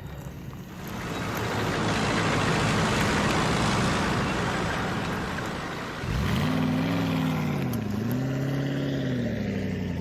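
Motor-vehicle sound effect: a rushing noise swells up about a second in and holds, then about six seconds in an engine note comes in, rising, dipping briefly and rising again.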